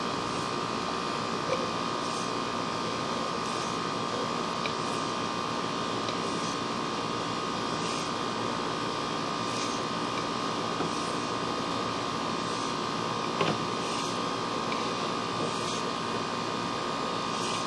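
Steady hiss with a constant high hum, picked up through a sewer inspection camera's audio while it travels down the drain line, with a few faint ticks.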